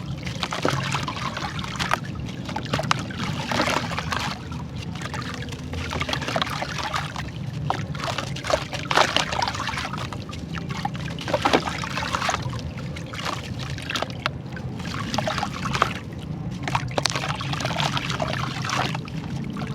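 Crunchy charcoal crumbling and being dipped in water: a dense, uneven crackling and crunching with water trickling and splashing under it, and a few louder crunches.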